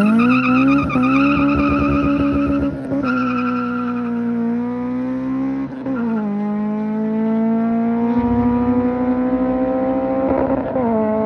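Honda K20 four-cylinder engine pulling hard as the car accelerates away, its pitch climbing through each gear and dropping at upshifts about six and ten and a half seconds in. A high wavering squeal rides over the first three seconds.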